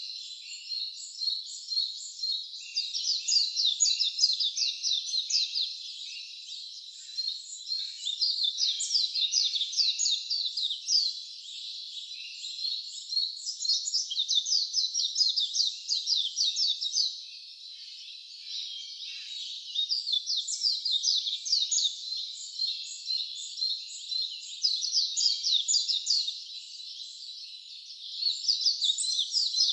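A chorus of high-pitched calls, made of rapid repeated notes. It comes in overlapping bouts of a few seconds each, with brief lulls between them.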